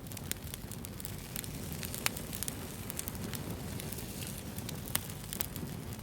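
Wood fire burning: a steady low rush with frequent sharp crackles and pops, the loudest about two seconds in and another near five seconds.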